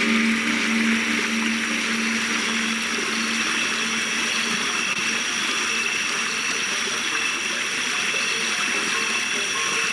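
Running water, like a stream, as a steady rush. A low held synth drone fades out in the first second, and faint high tones hang over the water.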